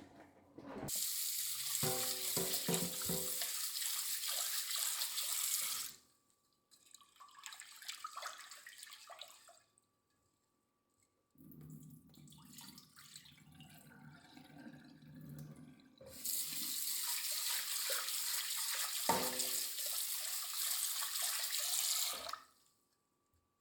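Kitchen tap running into a sink twice, each time for about five to six seconds, with quieter handling sounds in between.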